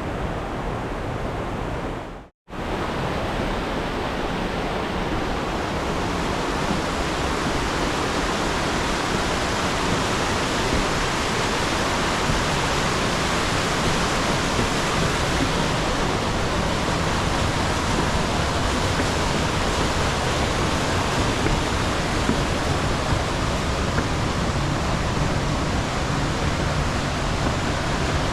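Steady rushing of a mountain stream cascading through a gorge, an even noise without pitch. There is a brief dropout a couple of seconds in, after which the rush is slightly louder.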